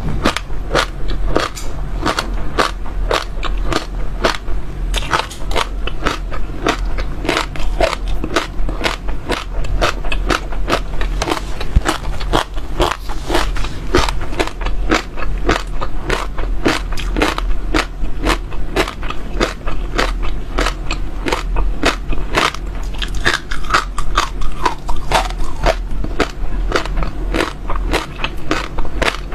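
Close-miked chewing: small hard seeds being bitten and crushed between the teeth, a dense run of crisp cracks several times a second, over a steady low hum.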